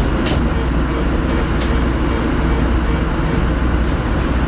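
Jiji Line train running, heard from inside: a steady loud low rumble with a few sharp clicks.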